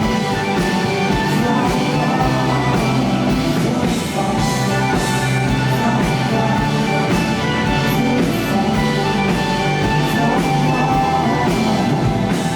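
Live rock band playing: a drum kit keeping a steady beat under guitars and sustained chords, loud and even throughout.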